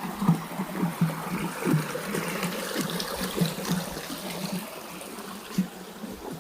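Running stream water, with an uneven, pulsing flow.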